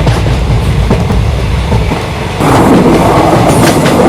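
A train running on rails: a low rumble with the wheels clattering over rail joints. About two and a half seconds in, the sound turns louder and rougher.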